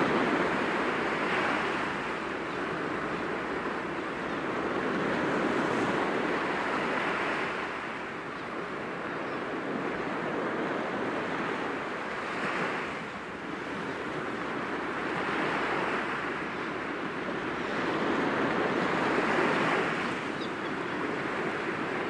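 Sea waves breaking gently against rocks: a continuous wash of surf that swells and eases every few seconds.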